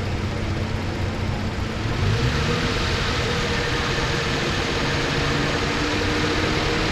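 2009 Lincoln MKZ's 3.5-litre V6 idling steadily after its misfire repair, all six cylinders firing. The sound grows a little louder about two seconds in, as a steady whir joins the engine.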